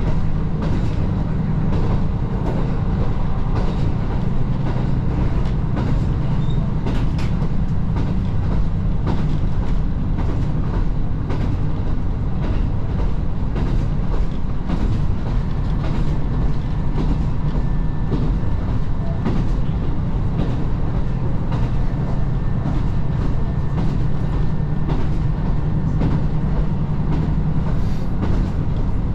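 Diesel railcar running along the line: a steady low engine drone with frequent irregular clicks of the wheels over rail joints.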